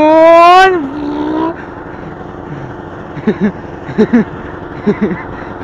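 A vehicle engine revving loudly, its pitch dipping and then rising, before dropping away about a second and a half in; after that a quieter steady running noise with a few short pitched sounds.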